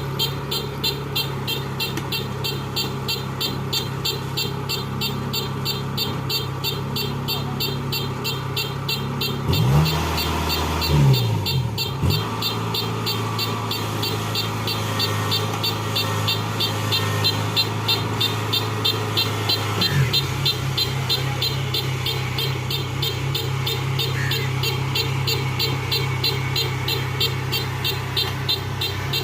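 Kubota tracked combine harvester's diesel engine running steadily, with a fast, even ticking clatter over the hum. The engine note dips and rises again about ten seconds in, and briefly once more around twenty seconds.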